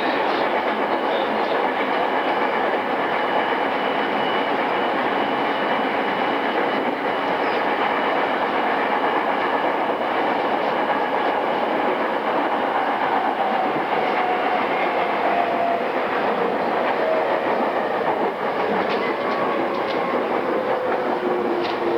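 Running sound inside a JR East E217-series electric multiple-unit motor car: steady rumble of wheels on rail and car body. In the second half a motor whine slides down in pitch as the train slows, and a few short rail clicks come near the end.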